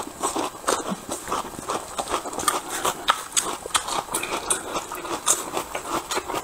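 Close-miked crunching and chewing of raw red onion, with many crisp, irregular crackles several times a second.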